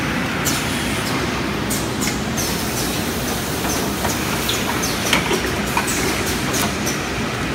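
Servo-driven paper cross-cutting machine running: a steady mechanical din with frequent sharp clacks at uneven intervals.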